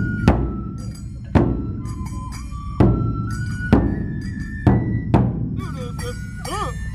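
Festival music of the Matsue dō procession: large dō barrel drums struck hard, about once a second, under a bamboo flute playing a melody of held notes that step up and down.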